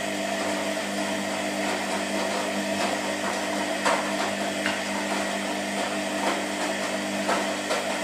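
Washing machine motor running with a steady humming whine and scattered light knocks; it cuts off right at the end.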